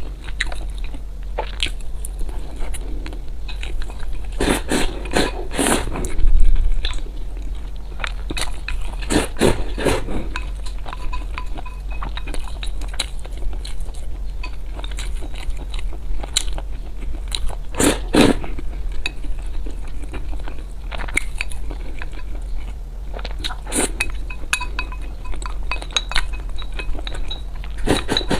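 Close-miked eating: irregular crunching and chewing of food, with occasional clinks of utensils against dishes, over a steady low hum.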